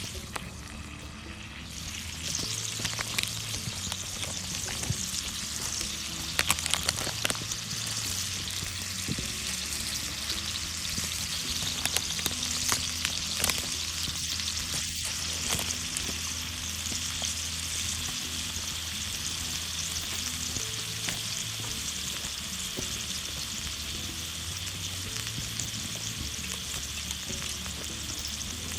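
Food frying and sizzling in a pan, starting about two seconds in, with scattered pops and clinks.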